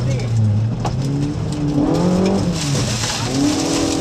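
Four-cylinder Mitsubishi Saturn 4G32 engine of a classic Colt Lancer A73 rally car, heard from inside the cabin as the car slows from about 100 km/h. The engine note falls, rises briefly about two seconds in, then climbs and holds near the end. A hiss of tyre and gravel noise comes around three seconds in.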